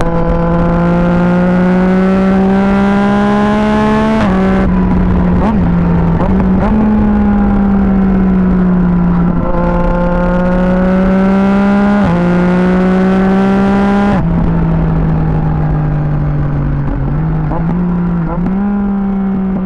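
Yamaha MT-09 SP's three-cylinder engine through an Akrapovic exhaust, accelerating hard through the gears. The pitch climbs and drops back at upshifts about 4, 9 and 12 seconds in. After about 14 seconds the throttle is eased and the engine runs on lower and steadier, with a couple of small blips near the end.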